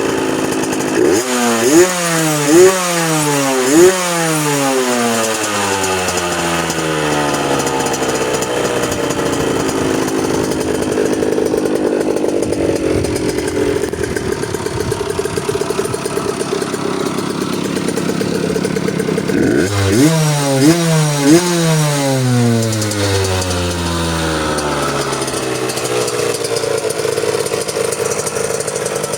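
Rieju RV 50's small two-stroke engine revved hard in quick blips up to the cut-off, three times in the first few seconds and again three times about twenty seconds in. Between the bursts it drops back and runs steadily at low revs.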